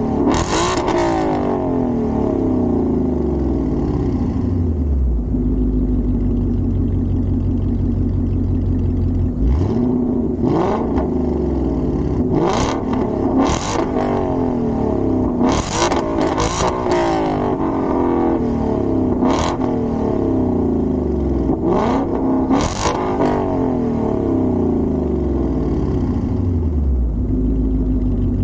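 Ford Mustang GT's 5.0 V8 through a Borla ATAK cat-back exhaust, being revved. There are repeated sharp throttle blips, some in quick pairs, over a steady exhaust rumble, with the revs falling back between them.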